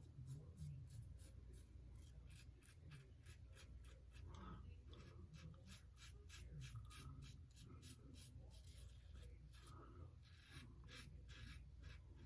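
Wolfman WR2 safety razor strokes cutting stubble through shaving lather: a faint, quick run of short scratchy rasps, about two to three a second.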